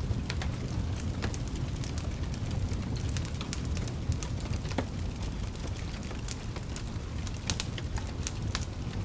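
Wood fire crackling: frequent irregular sharp pops and snaps over a steady low rumble of flame.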